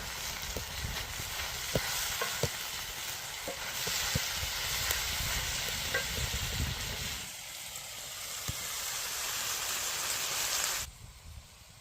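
Food frying over a campfire: a steady sizzling hiss with scattered small pops and crackles. It drops away sharply near the end.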